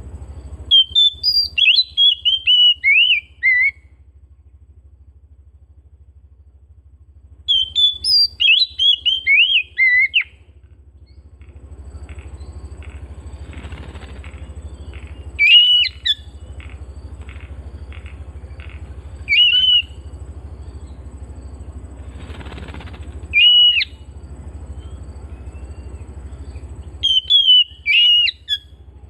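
Oriental magpie-robin (kacer) singing: two phrases of rapid, varied whistled notes in the first ten seconds, then short single whistled calls every few seconds. A steady low hum runs under the song.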